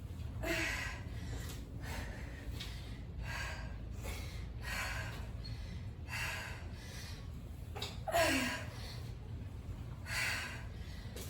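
A woman's hard exertion breathing during a set of exercise reps: sharp, breathy exhales and gasps, one every second and a half to two seconds, a few with a short grunt, the loudest about eight seconds in.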